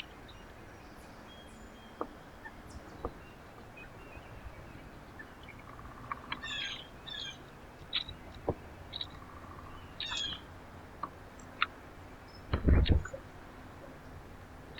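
Small birds chirping at a feeder: scattered short, high chirps in small clusters, with a few sharp clicks. Near the end comes one loud, low thump, the loudest sound here.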